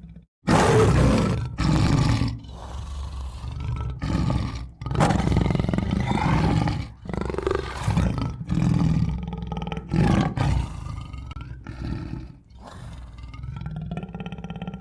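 Tiger roaring and growling: a run of loud roars with short pauses between them, starting sharply about half a second in.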